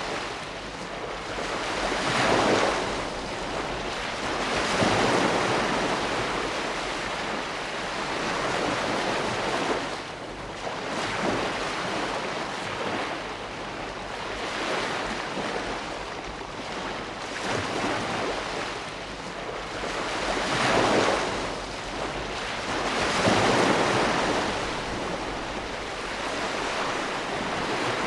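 Ocean waves breaking and washing on the shore, a continuous rush that swells with each wave every few seconds.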